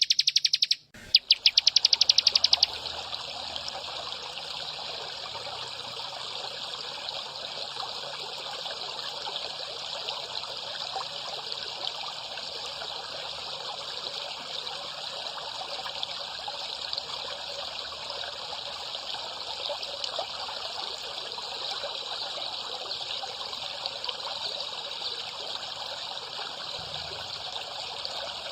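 Steady trickling of running water, used as the water-sound break in a songbird training recording. For the first couple of seconds a loud, rapid buzzing trill plays instead, with a short break about a second in, before the water takes over.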